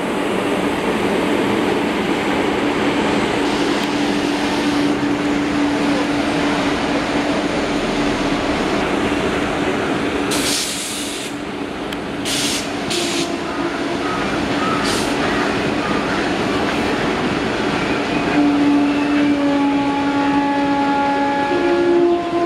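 Electric-hauled passenger train running past close by: the rumble and clatter of the coaches on the track, with a steady hum in the first several seconds. A short hiss about ten seconds in and a few sharp clicks follow, and several steady tones sound together near the end.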